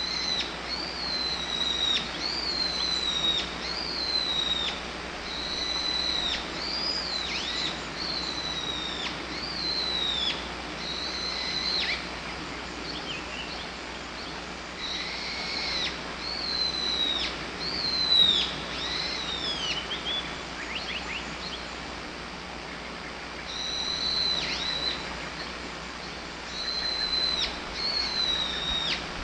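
Wild bird singing outdoors: the same short whistled phrase, sliding down in pitch, repeated about once a second. A few other fainter calls join in, and the song pauses for a few seconds about two-thirds of the way through before resuming.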